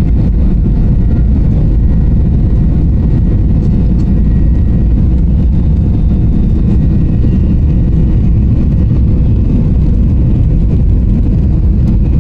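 Cabin noise of a Boeing 737-800 in flight, heard from a window seat: the CFM56-7B engines and airflow making a loud, steady, deep rumble with a few faint steady tones above it.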